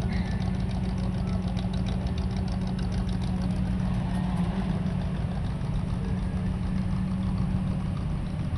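Car engines idling close by in a slow-moving queue of classic cars: a steady low engine hum.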